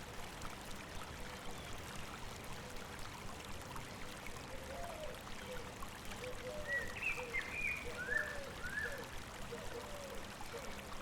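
A river babbling steadily over rocks. From about four seconds in, birds chirp in short, arching notes at a low and a high pitch.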